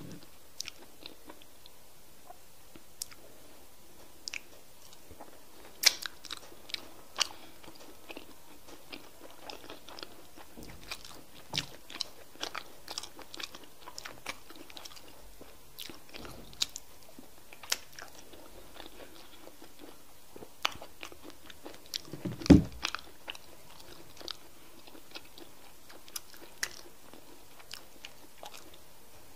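Close-miked eating of semolina fufu with okra soup by hand: wet chewing, smacking and mouth clicks, with the hand squelching through the slimy soup between mouthfuls. Short sharp clicks come scattered throughout, with one louder thump about three-quarters of the way in.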